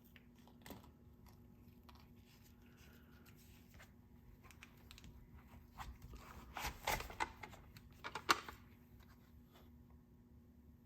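Handling noises: scattered light clicks and crinkly rustling, busiest in a flurry between about six and eight and a half seconds in, with one sharp click near the end of it.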